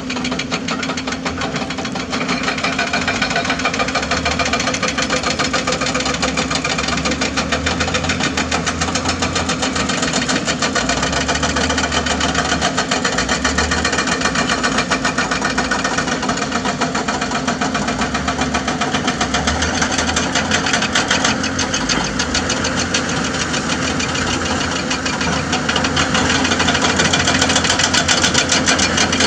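Excavator-mounted hydraulic breaker hammering limestone in a rapid, steady rattle of blows, over the excavator's diesel engine running.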